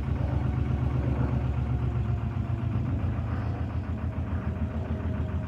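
Narrowboat diesel engine running steadily with a fast, low beat.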